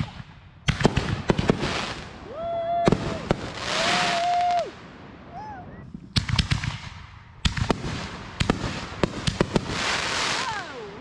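Reloadable firework mortar shells going off in quick succession: clusters of sharp bangs, two spells of crackling, and short whistles, including falling whistles near the end.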